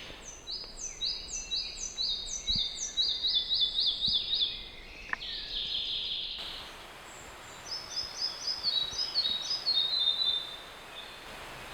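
A small songbird singing in two phrases of quick, high, repeated notes. The second phrase steps down in pitch toward its end.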